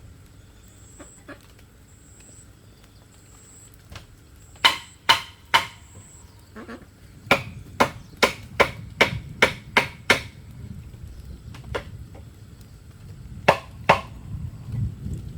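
Sharp strikes of a tool working bamboo: a group of three, then a quick run of about eight at roughly three a second, then two more.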